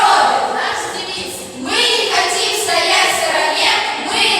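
A group of children's voices performing together in unison, in drawn-out phrases.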